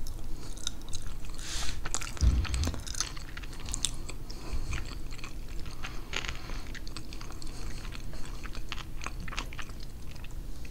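Close-miked chewing of pernil with rice and beans: scattered wet mouth clicks and soft crunches, with a low thump about two seconds in.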